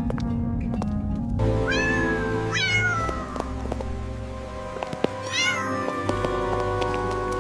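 A cat meowing three times over background music, the meows about a second and a half, two and a half and five and a half seconds in.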